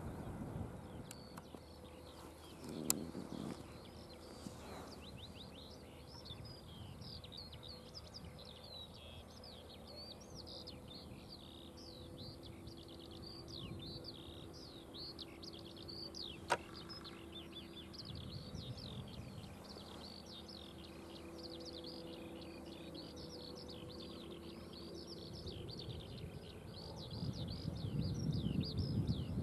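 Birdsong: many quick, high chirps overlapping continuously, over a faint steady hum. Two sharp clicks stand out, one about three seconds in and a louder one about halfway through, and a low rumbling noise swells near the end.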